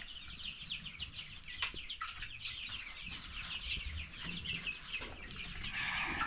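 A flock of young chickens peeping continuously, many short high calls overlapping, with a couple of sharp knocks and a rustle near the end.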